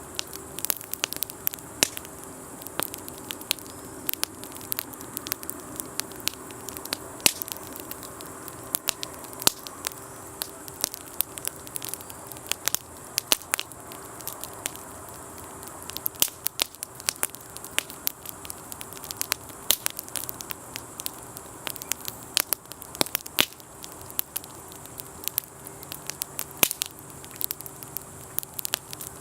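Wood campfire crackling, with frequent sharp pops at irregular intervals. A steady low hum runs underneath, and a second, deeper hum joins near the end.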